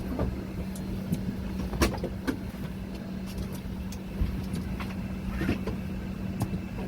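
Steady low hum and rumble of a parked Airbus A320neo's cabin air supply, with scattered sharp clicks and knocks of passengers boarding and stowing bags.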